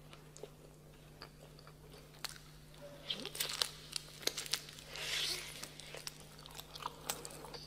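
A person biting and chewing roasted dog meat close to the microphone, mukbang-style. There are wet crunchy clicks, sparse at first and coming thick and fast from about three seconds in.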